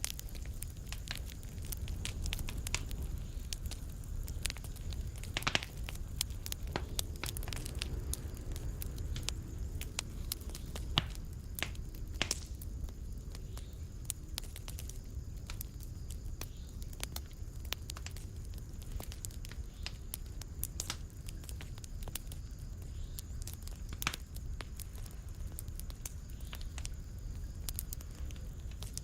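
Fireplace wood fire crackling: frequent small snaps and a few louder pops, irregularly spaced, over a steady low rumble of burning.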